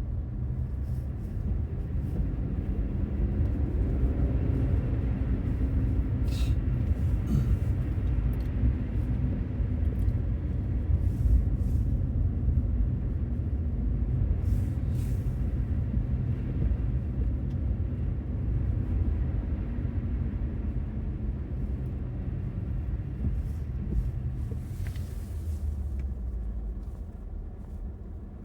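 Infiniti Q50 Red Sport 400's twin-turbo V6 running under way, with a steady low road rumble. The engine note rises a little from about four seconds in, then settles back.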